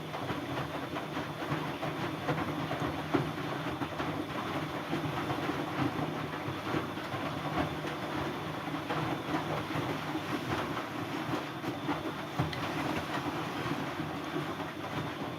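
Siemens Siwamat C10 washing machine running: a steady motor hum with continuous clattering from the turning drum.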